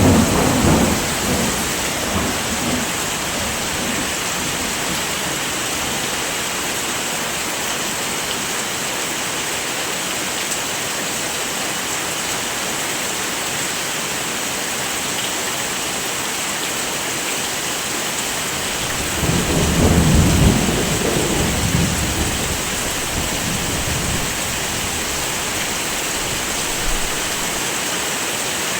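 Steady heavy rainfall hissing, with thunder rumbling twice: one roll fades out in the first couple of seconds, and another swells and dies away about two-thirds of the way through.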